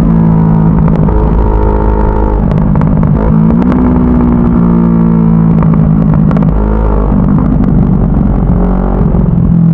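CFMoto 400NK motorcycle's parallel-twin engine running while under way. Its pitch rises and falls several times as the revs change.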